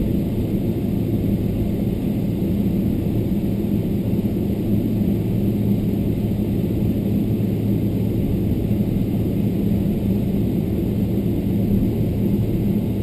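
Steady cabin noise inside a Boeing 777-300ER taxiing on the ground after landing: an even rumble with a constant low hum.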